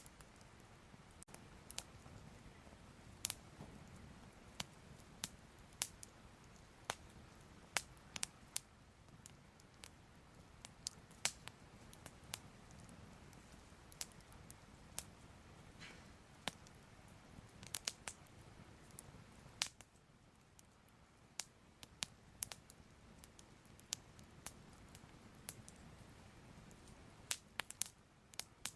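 Soft crackling fire: irregular sharp pops and crackles over a low, steady rumble.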